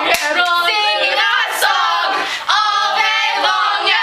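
A small group of voices singing together a cappella, holding and sliding between notes.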